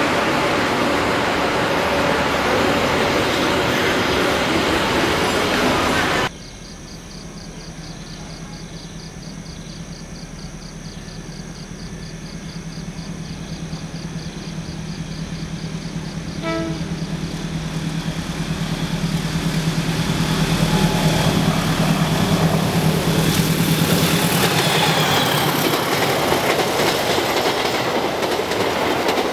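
A diesel-hauled passenger train approaches and passes. A steady low engine drone builds for about twenty seconds, then the coaches rush by with clickety-clack over the rail joints. The first few seconds are steady, loud station platform noise, which cuts off abruptly.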